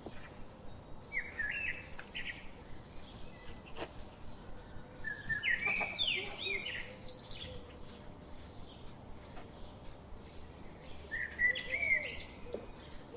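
Birds chirping in three short bursts of quick, warbling calls: about a second in, around five to seven seconds, and again near the end, with a few faint clicks between.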